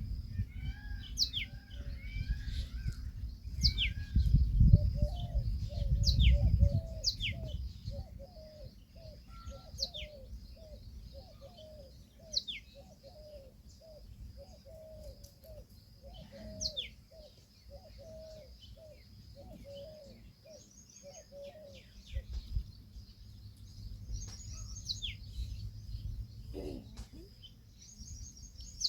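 Birds calling: a long run of short, low, arched notes at about three a second, with high, quickly descending chirps in between. A low rumble runs under the first few seconds.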